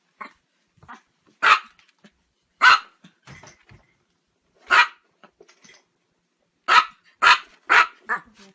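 A dog barking in single loud, sharp barks with gaps between them, then four barks in quick succession near the end.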